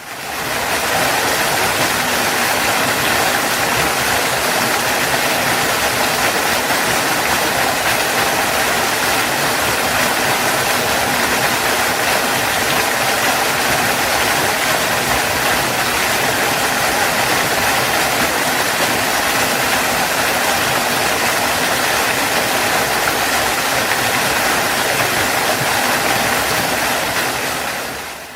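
Waterfall rushing in a steady, even roar of falling water, fading in at the start and fading out at the end.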